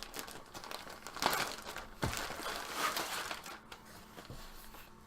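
Packaging crinkling and rustling in irregular bursts as a hockey jersey is unwrapped.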